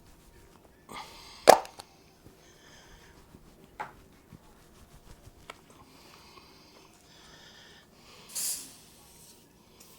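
Aerosol can of foaming degreaser being handled: one sharp click about one and a half seconds in, a few softer clicks and rustles, then a short burst of spray hiss near the end.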